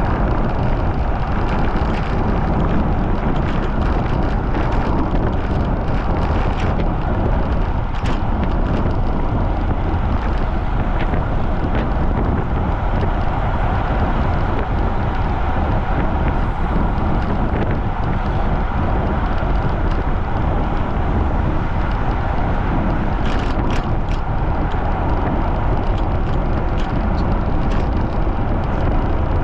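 Steady wind noise buffeting the microphone of a bicycle-mounted camera riding fast in strong wind, mixed with tyre and road noise. A few brief sharp clicks sound through it, about eight seconds in and near the end.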